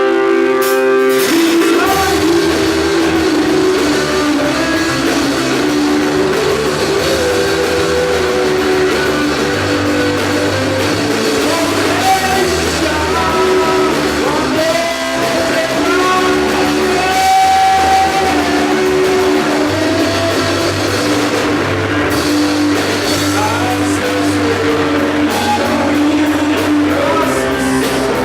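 Rock band playing live: electric guitars, bass and drum kit with a singer's voice over them, the full band coming in about two seconds in.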